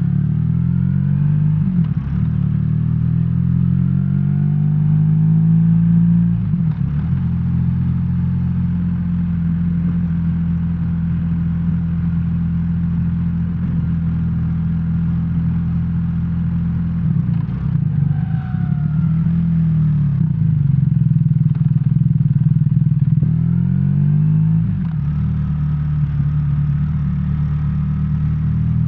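BMW R1300R's 1300 cc boxer-twin engine running under way. Its note rises in pitch and drops back several times, with a long steady stretch in the middle.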